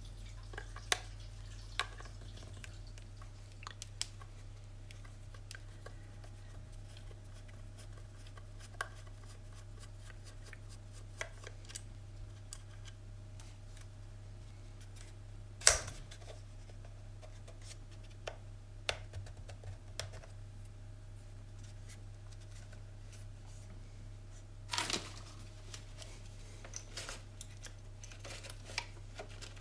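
Scattered small clicks, taps and rustles of hands taking apart a cheap plastic multimeter, with one sharp snap about halfway through and a short clatter of clicks near the end, over a steady low electrical hum.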